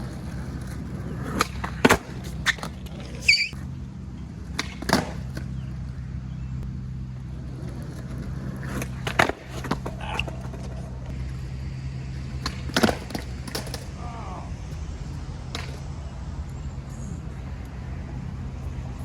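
Skateboard rolling on concrete with a steady low rumble, broken by several sharp clacks of the board popping and the deck and trucks slapping the ground during attempts at a shove-it.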